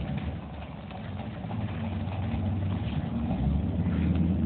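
Mopar 383 big-block V8 in a small truck running at low revs, dropping in level about half a second in and then slowly getting louder again.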